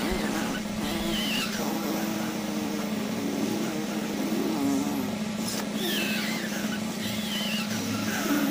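Noo Noo, the Teletubbies' vacuum-cleaner character, making his vacuum-machine noises. A steady motor hum runs throughout, with squeaky rising and falling noises over it.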